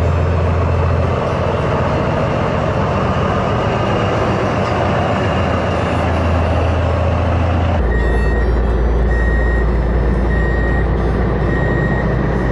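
Heavy truck engine running steadily. About eight seconds in, the sound cuts abruptly to another truck running with a reversing alarm beeping about once a second.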